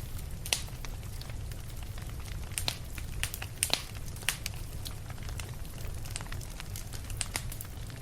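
Campfire burning: scattered sharp crackles and pops from the wood over a steady low rumble.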